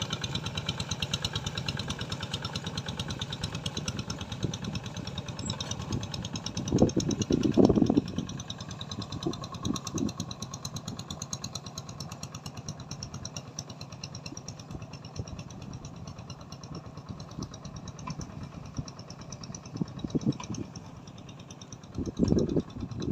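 A small engine running with a fast, even beat. It is strongest for the first eight seconds, with a couple of louder surges, then carries on more faintly.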